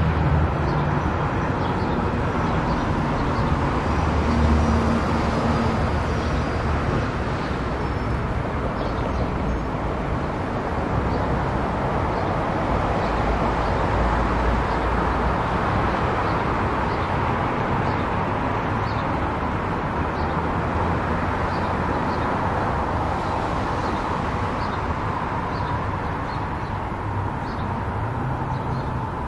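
Car driving at speed on a highway: steady road and tyre noise with a low engine rumble, no change in pace.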